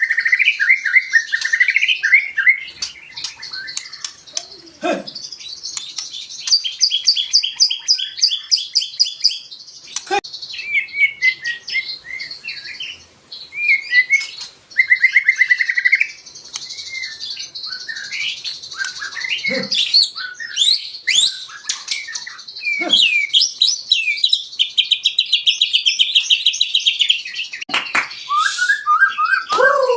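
White-rumped shama (murai batu) singing a long, varied song: rapid trills and fast series of high repeated notes mixed with sweeping whistled phrases and a few short low notes.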